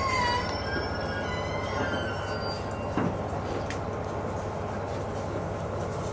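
KiHa 200 series diesel railcar coming to a stop: faint wheel and brake squeal fades out over the first two seconds, leaving a steady low rumble with one sharp click about three seconds in.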